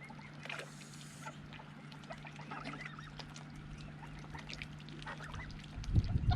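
A flock of ducks and geese calling in many short, scattered notes over a steady low hum. A loud low rumbling noise comes in near the end.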